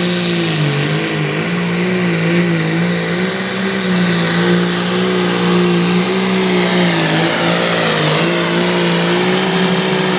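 Turbocharged diesel engine of a limited pro stock pulling tractor held at full throttle under load, dragging the sled down the track. The engine note wavers, dipping briefly about a second in and again near the end before recovering.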